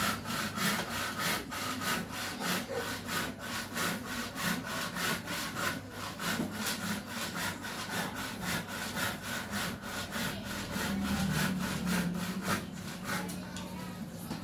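Steady rhythmic rasping strokes, about three a second, with a low hum underneath.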